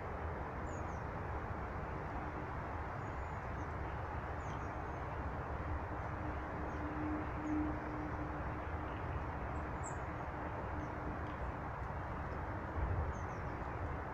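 Small birds giving scattered short, high chirps over a steady background rumble, with a faint steady hum in the middle and a brief low thump near the end.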